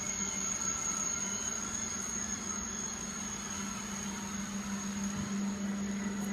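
Steady low hum with a thin high whine over a noise haze, from a Eurostar Class 373 high-speed train standing at the platform.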